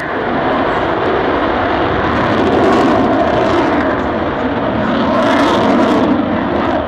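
Eurofighter Typhoon's twin jet engines, loud and steady with slow swells in level, as the jet flies a slow nose-high pass with its height held on the throttle.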